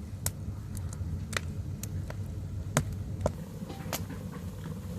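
Firewood burning in a traditional Korean agungi firebox, crackling with scattered sharp pops over a low steady rumble.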